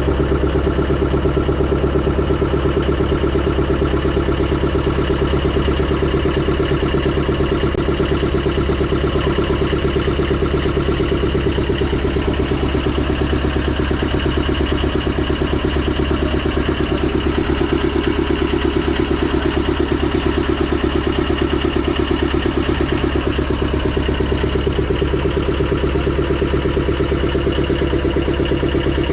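A boat's engine running steadily and loudly close by, with a fast even pulsing throb.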